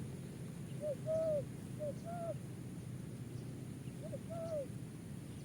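Spotted dove cooing: three two-part coos, each a short note followed by a longer arched one.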